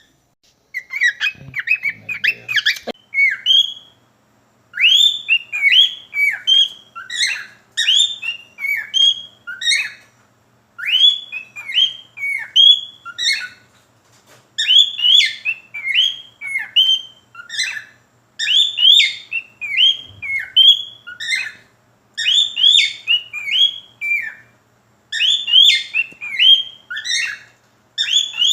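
Cockatiel singing: phrases of quick rising and falling whistled notes, repeated in bouts of a few seconds with short breaks between them.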